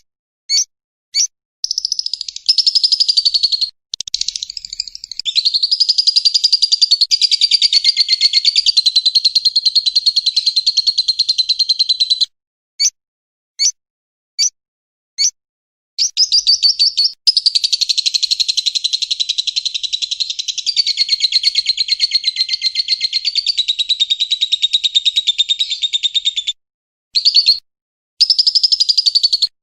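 Recorded songbird calls played as masteran training song. There are two long runs of very rapid, rattling repeated notes, each lasting several seconds. Short single chirps come between them.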